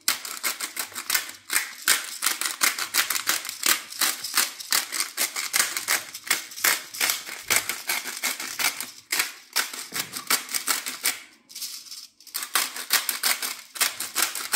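Hand-twisted pepper mill grinding black pepper: a rapid, steady run of dry clicks, about five a second, pausing briefly twice.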